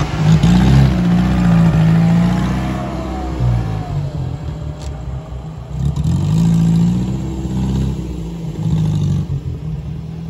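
Car engines revving hard as racing cars pass on a dirt track, once in the first few seconds and again about six seconds in, with the engine pitch rising and falling through each pass.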